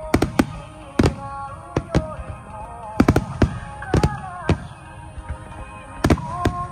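Aerial firework shells bursting, about a dozen sharp bangs, several close together, over music with a held melody.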